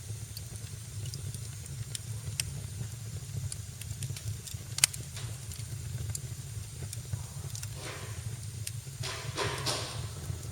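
Wood fire in a fireplace crackling: scattered sharp pops over a steady low rumble, one pop loud about halfway through, then two spells of hissing near the end.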